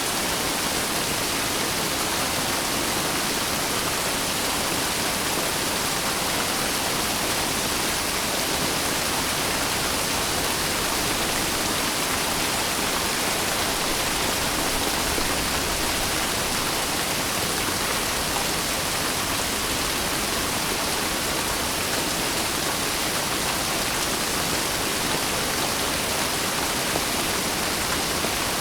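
Steady rain falling, an even hiss that neither rises nor falls, with no thunder.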